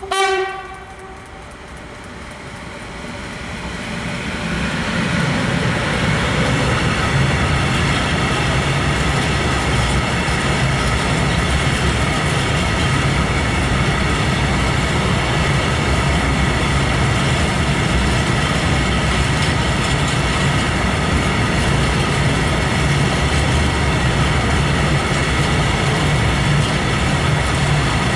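An electric freight locomotive sounds one short horn blast. A train of coal wagons then approaches with a rolling rumble that builds over a few seconds and holds steady and loud as the wagons pass.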